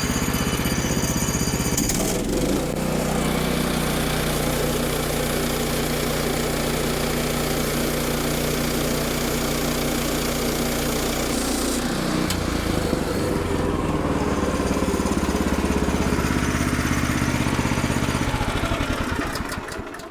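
Gasoline engine of a Woodland Mills portable bandsaw sawmill running steadily while the blade resaws a fir board. The engine note shifts about two seconds in and again about twelve seconds in, and the engine shuts off near the end.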